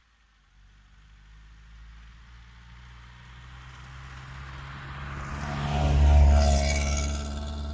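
A car drives past close by: engine and tyre noise grow steadily louder, are loudest about six seconds in, then start to fade.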